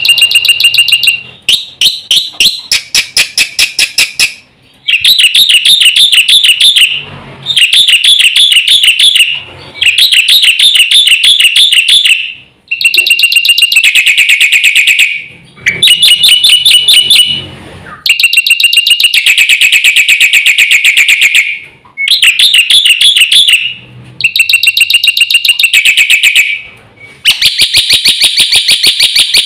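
Black-winged starling (jalak putih) singing loudly in fast phrases of rapidly repeated notes, each phrase one to three seconds long, with short pauses between them.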